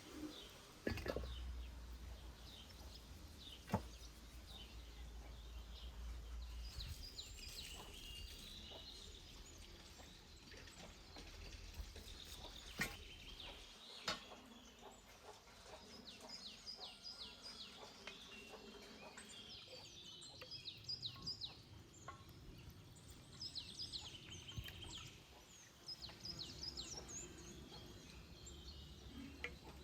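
Small birds chirping in short repeated series of high notes, with a few sharp clicks or knocks scattered through.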